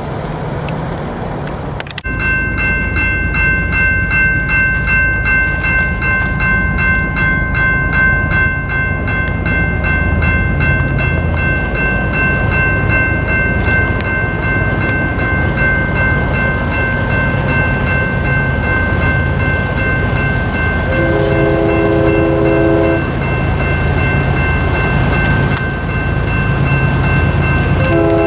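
Railroad grade-crossing bell ringing steadily from about two seconds in, over the rumble of an oncoming freight train. The diesel locomotive sounds its multi-chime horn twice: a blast of about two seconds some twenty seconds in, and another starting at the very end.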